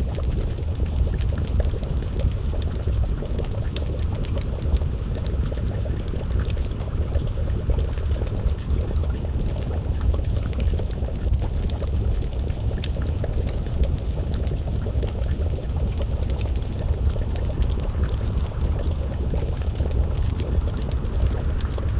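Wood fire crackling, many small sharp pops over a steady low rumble, mixed with a pot of stew bubbling.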